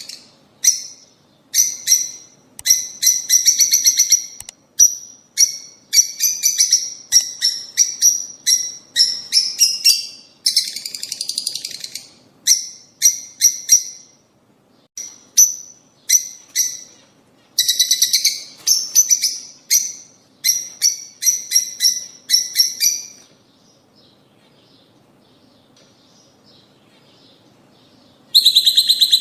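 Lovebirds, rosy-faced (peach-faced) and Fischer's, calling in rapid runs of short, shrill chirps. The calls stop for about five seconds near the end, then start again loudly.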